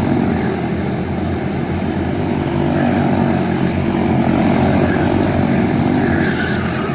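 Quarter midget race car's small single-cylinder engine running steadily, its pitch wavering slightly.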